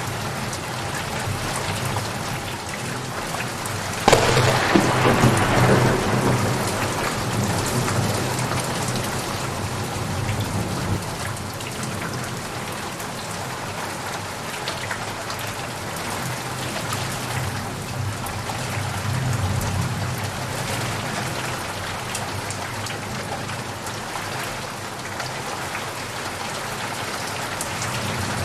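Steady rain falling, with a sharp thunderclap about four seconds in that rumbles on for several seconds and slowly fades, and a lower roll of thunder later.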